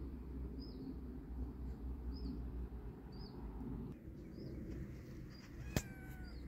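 A bird repeating a short, high chirp about once a second over a low, steady background rumble. Near the end there is a sharp click followed by a brief falling squeak.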